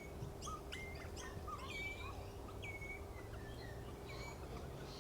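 Wild birds calling: a string of short whistled notes, many dropping sharply in pitch and then held for a moment, overlapping with softer, lower chirps.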